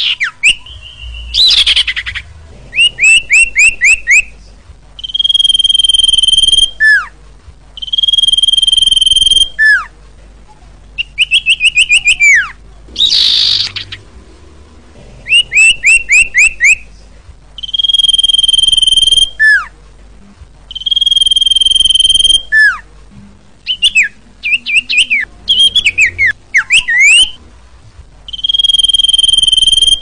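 Common iora (sirpu) singing over and over. Its phrases alternate between a long, level whistle of about a second and a half ending in a short downward slur, and quick runs of four or five rising notes, with a few short noisy sweeps in between.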